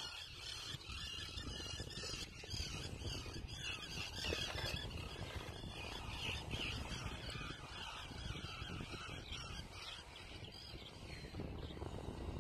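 Many small birds chirping and calling in a busy chorus, over a low rumble of wind on the microphone.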